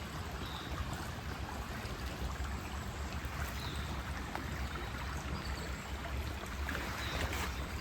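Steady outdoor background hiss with a low rumble, and a few faint short high chirps scattered through.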